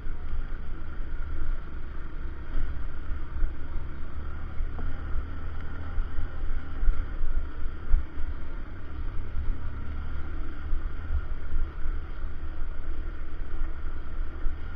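Steady wind buffeting the microphone, a low fluctuating rumble, over the running noise of a motorcycle on the move.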